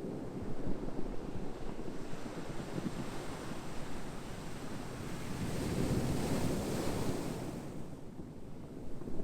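Ocean surf rushing steadily. A wave surges in with a brighter hiss a little past the middle, then eases off.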